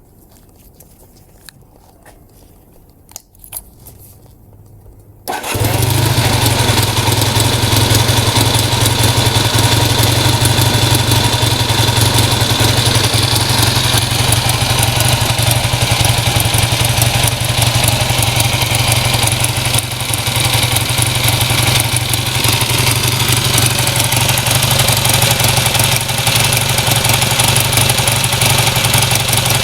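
Honda CB400T Hawk II parallel-twin engine, breathing through its stock muffler, being started: a few light clicks, a short crank, then it catches about five seconds in and settles into a steady idle.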